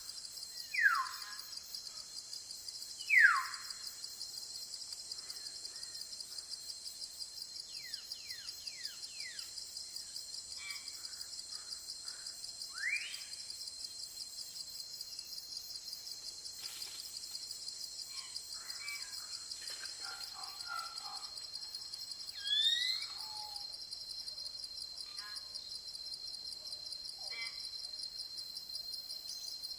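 Steady high-pitched chorus of jungle insects, pulsing finely, with a bird calling over it: loud downward-sliding whistles about a second and three seconds in, and rising whistles near the middle and about three-quarters of the way through.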